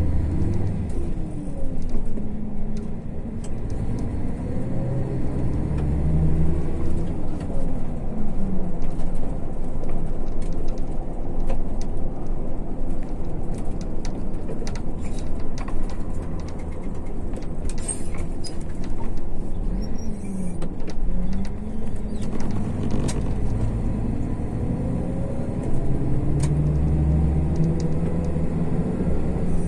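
MAZ-152 coach's diesel engine heard from inside the bus while under way, its pitch climbing and dropping several times as it accelerates and changes gear, over steady road noise. Short ticks and rattles from the bus body and fittings come through now and then.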